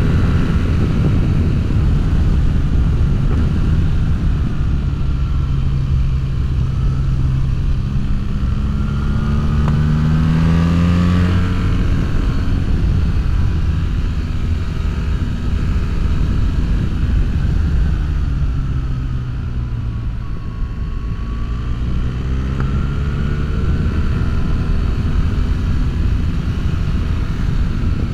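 BMW R1300GS boxer-twin engine through an Akrapovic full exhaust with a decat mid-pipe, riding under load with the revs rising and falling. The pitch climbs steadily a few seconds in, falls back, then dips and climbs again near the end.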